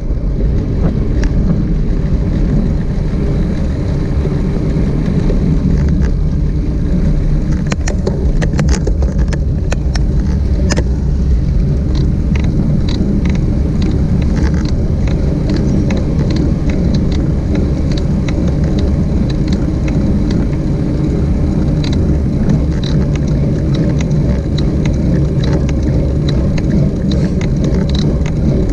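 Steady rush of wind and road noise while riding, with frequent small rattles and clicks throughout.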